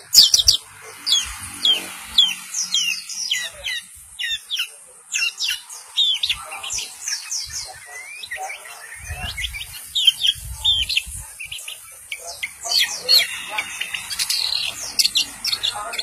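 Long-tailed shrike (cendet) in a cage, singing a busy stream of sharp, falling chirps, many in quick runs of several notes. A few low muffled bumps come about halfway through.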